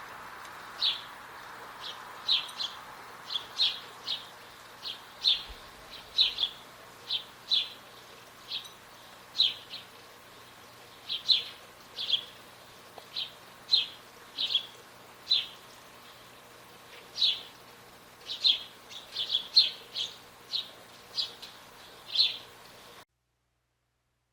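Northern cardinal giving sharp, short chip calls, singly and in quick pairs, one or two a second at irregular intervals, over a faint steady hiss. The sound cuts off suddenly near the end.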